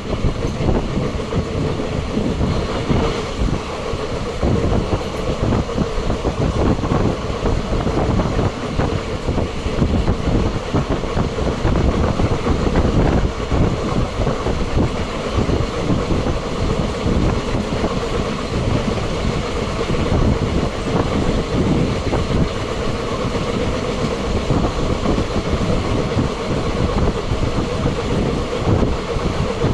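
Train running on the rails: a steady loud rumble with continual clatter of wheels over rail joints and a constant hum.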